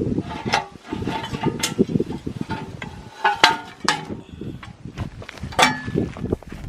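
Metal tools and parts clanking and knocking irregularly, several strikes ringing briefly.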